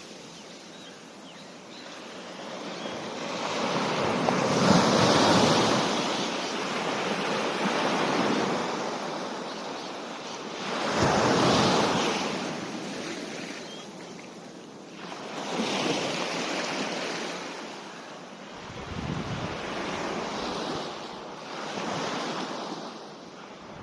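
Ocean surf: waves breaking and washing up the beach, the sound swelling and fading every few seconds, with some wind on the microphone.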